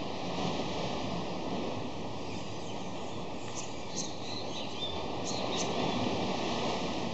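Steady rush of surf on a beach, with a few short, high bird chirps about halfway through.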